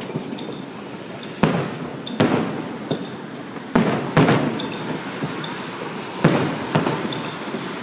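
Series of fireworks bangs, about six or seven, several coming in quick pairs, each with a short trailing echo.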